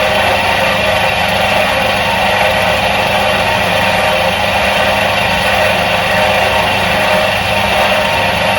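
Electric motor of a 1977 Soviet washing machine running at a steady speed: an even mechanical hum over a whirring hiss.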